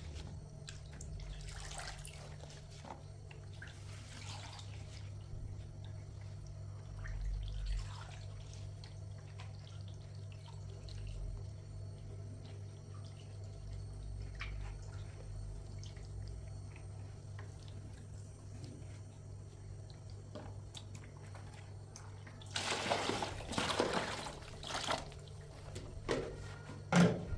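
Water splashing and dripping over a steady low hum, with a few seconds of louder splashing near the end.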